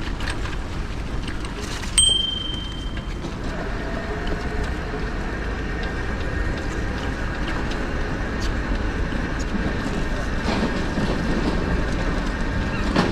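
A steady low rumble of wind and tyre noise from a bicycle being ridden. About two seconds in, a bicycle bell dings once and rings on for about a second.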